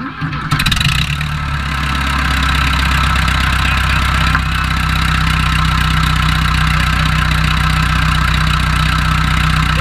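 John Deere JD400 backhoe engine starting abruptly and running, uneven for the first second or two, then settling into a steady idle. The machine is running again after sitting for over ten years.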